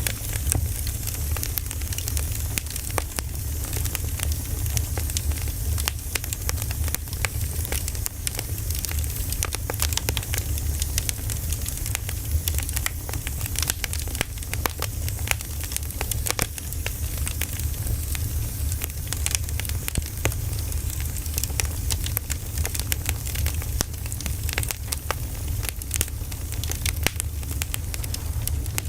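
Wood fire burning, with dense, irregular crackles and pops over a steady low rumble.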